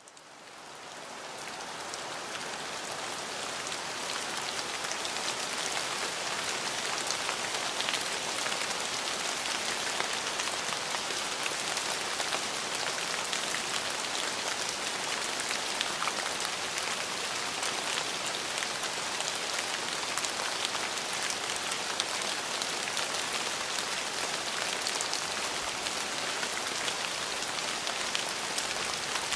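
Steady rain falling on a surface, a dense even patter of drops, fading in from silence over the first few seconds.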